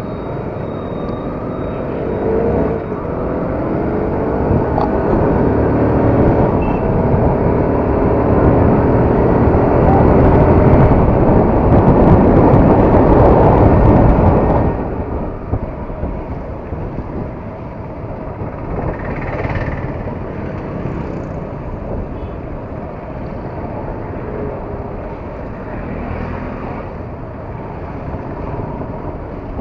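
Yamaha R15's single-cylinder engine pulling as the bike accelerates, its pitch rising in steps, with wind rush building louder. About halfway through it drops off suddenly to a steadier, quieter ride.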